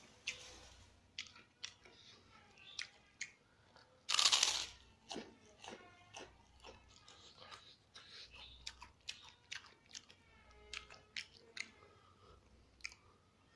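Close-up eating sounds: crunching and chewing of a meal of crispy battered fried egg with rice, with many sharp mouth clicks and smacks and a louder rushing crunch about four seconds in.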